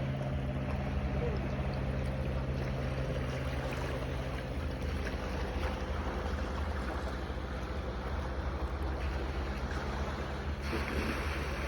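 A steady low engine hum over an even wash of waves and wind.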